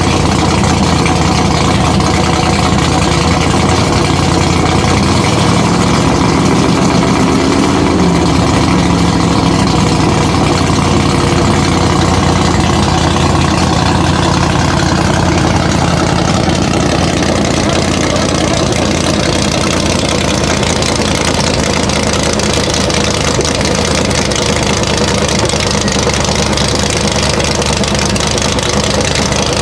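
Historic car engines idling steadily, with a brief rise and fall in engine pitch about seven seconds in, like a short rev.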